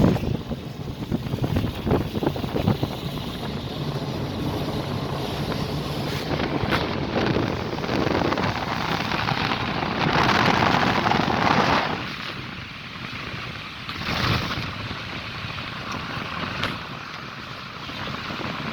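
Steady rushing of wind on the microphone over a vehicle's low rumble, with a louder hiss for about two seconds starting around ten seconds in.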